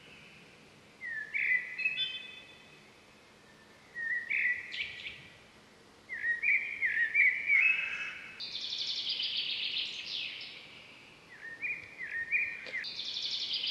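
A songbird singing phrases of short, stepped rising notes, twice running on into a long, rapid, higher-pitched trill.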